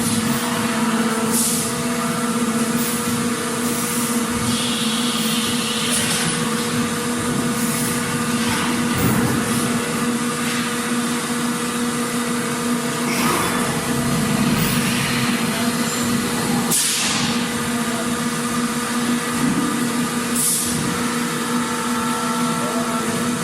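Factory floor ambience: machinery running with a steady hum and a constant noisy bed. A few short hisses break through at irregular moments, the clearest near the middle and toward the end.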